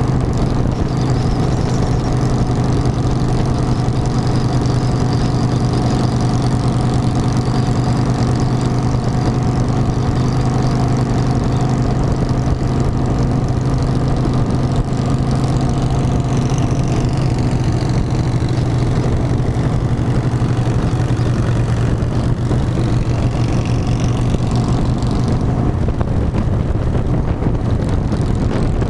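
Harley-Davidson motorcycle's V-twin engine running at a steady speed, a constant low drone with no change in pitch.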